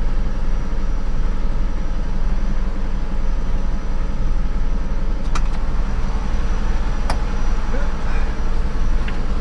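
Unimog Landstar engine idling steadily through a holed, worn-out exhaust. Two short sharp clicks come about five and seven seconds in.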